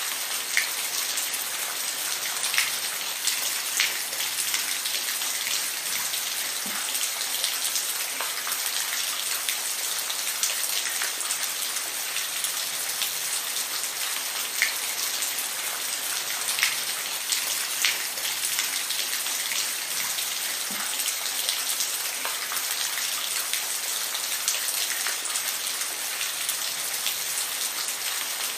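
Steady rain falling, an even hiss with scattered louder individual drops hitting a surface.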